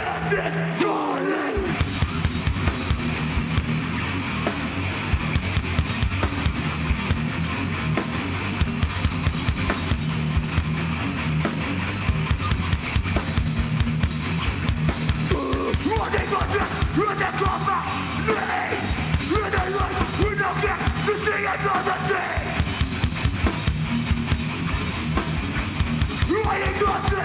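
Hardcore band playing live: rapid, driving drums under distorted guitars and bass, with no vocals.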